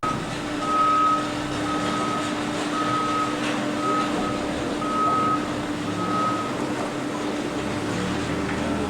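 Electronic warning beeper sounding six times at about one beep a second, then stopping about two thirds of the way through, over a steady machinery hum.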